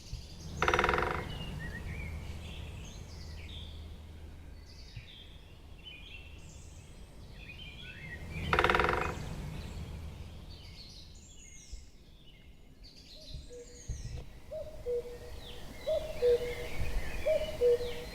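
Woodpecker drumming on wood: two short, rapid drumrolls, about a second in and again around nine seconds in, over scattered songbird chirps. From about thirteen seconds a common cuckoo begins calling its repeated two-note "cu-coo", the second note lower.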